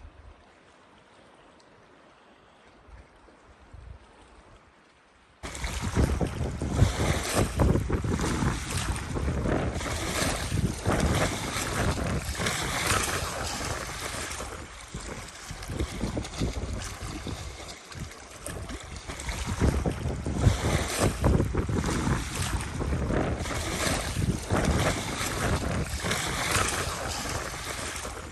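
Faint hiss for about five seconds, then a sudden jump to strong, gusty wind buffeting the microphone, with lake waves under it, rising and falling in loudness.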